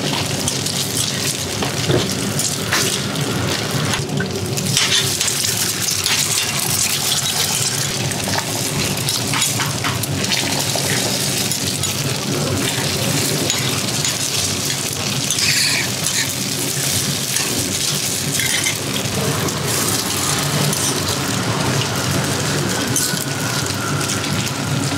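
Rice cakes and eggs sizzling in oil on a flat-top griddle, a steady crackling hiss, with a few sharp scrapes and taps of a metal spatula on the griddle.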